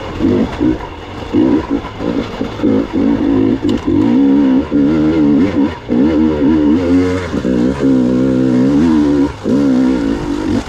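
Gas Gas EX 300 two-stroke enduro motorcycle engine under changing throttle while ridden on the trail, its pitch rising and falling, with the throttle chopped briefly a couple of times.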